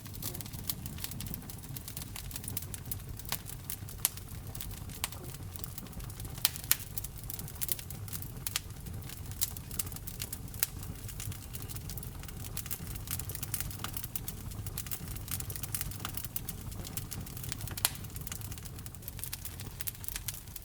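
Fire burning in a fireplace: a steady low rumble of flames under frequent sharp crackles and pops, with a few much louder pops scattered through.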